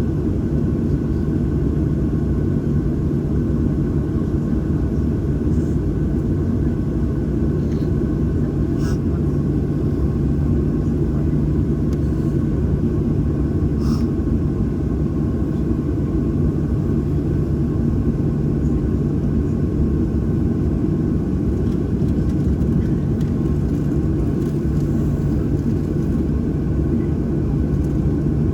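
Steady low rumble and hum of a Boeing 737-800 on the ground, heard from inside the passenger cabin, with a couple of faint clicks partway through.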